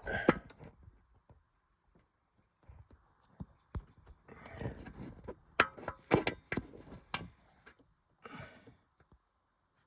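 Irregular knocks, clicks and rustles, most of them bunched together in the middle, with quiet gaps between.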